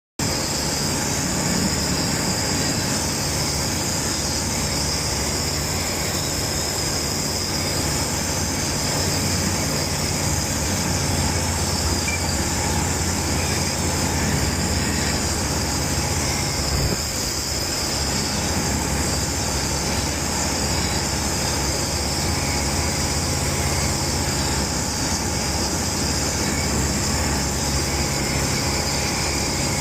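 Steady drone of an ICP Savannah S ultralight's 100 hp Rotax four-cylinder engine and propeller at constant power, heard from inside the cockpit with a wide rushing hiss over a low engine hum.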